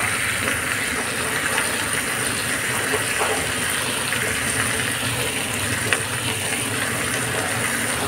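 Steady sizzling hiss of chhena (curdled-milk cheese) and sugar cooking in ghee in a pan.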